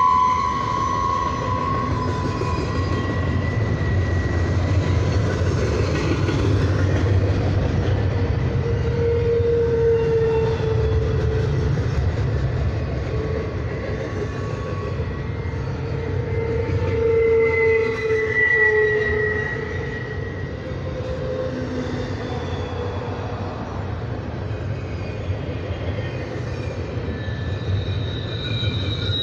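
Double-stack container well cars of a freight train rolling past with a steady rumble of steel wheels on the rail. Thin squealing tones from the wheels drift and come and go, strongest at the start and again about ten and eighteen seconds in.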